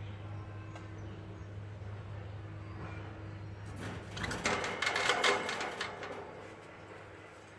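Budgerigars chattering in a dense burst of rapid clicks and warbles for about two seconds in the second half, over a steady low hum.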